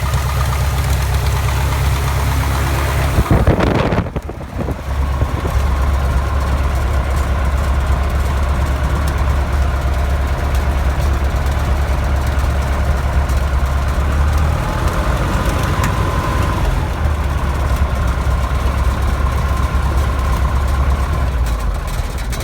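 Lycoming 160 hp four-cylinder, air-cooled, horizontally opposed aircraft engine running steadily at low speed. There is a brief loud burst about three seconds in, then a short drop in level before it settles again, and the low engine note shifts slightly a little past halfway.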